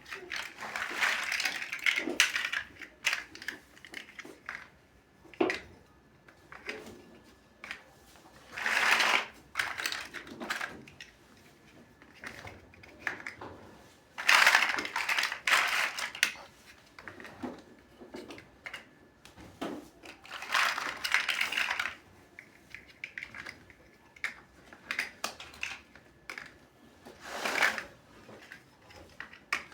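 Plastic Lego bricks clicking and rattling as they are handled and pressed together, in short bursts of clatter every few seconds with lighter single clicks between them.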